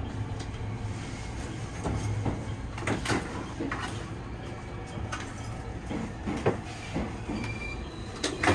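223-series electric train standing at a station: a steady low hum with scattered short knocks and clicks.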